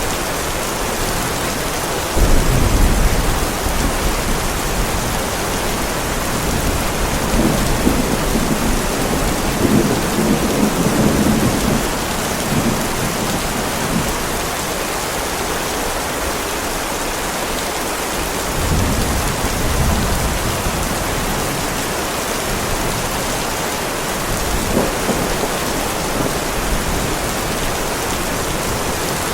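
Heavy rain falling steadily on a driveway, with thunder over it: a sharp low clap about two seconds in, a longer rolling rumble around ten seconds in, and fainter rumbles later on.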